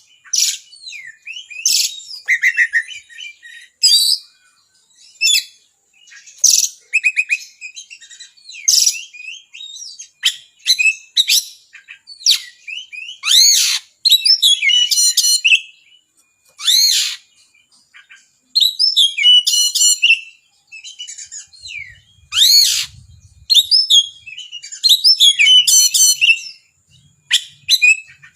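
Oriental magpie-robin (kacer) singing non-stop in loud, sharp bursts of varied phrases: quick rising and falling whistles, trills and rapid repeated notes, with short gaps between them. The song is full of mimicked phrases of other birds.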